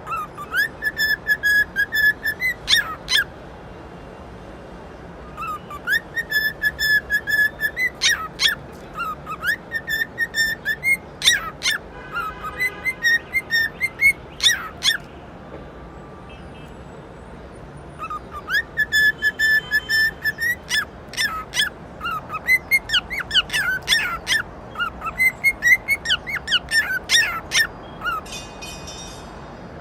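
A bird whistling and chirping in lively bouts: held whistled notes broken by quick rising chirps, with two pauses of a few seconds, one about three seconds in and one about halfway through.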